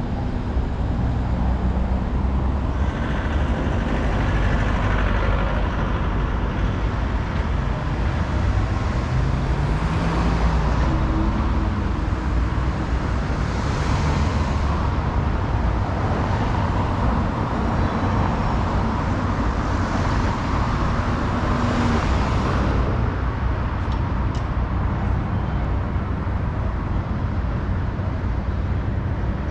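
City road traffic heard from a moving bicycle: a steady low rumble with cars and other vehicles passing in several swells, the last fading a little after two-thirds of the way through.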